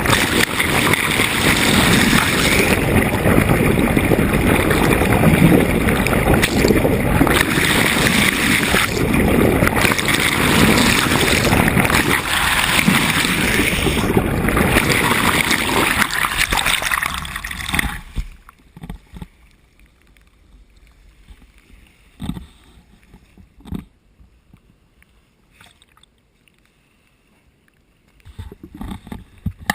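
Wind buffeting the microphone and water rushing past a sailboat's hull, a loud steady noise. About eighteen seconds in it cuts off suddenly, leaving a much quieter stretch with a few faint knocks, and it picks up again near the end.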